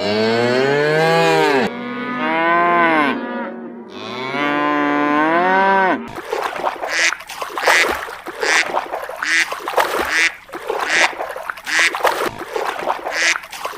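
Animal calls: three long, drawn-out calls that bend in pitch, then a quick run of short calls repeating about once or twice a second.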